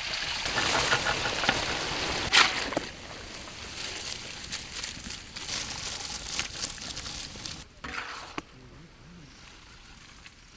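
Julienned ginger frying in hot sesame oil: a crackling sizzle, loudest for the first few seconds after it goes in, then settling to a softer, fainter sizzle.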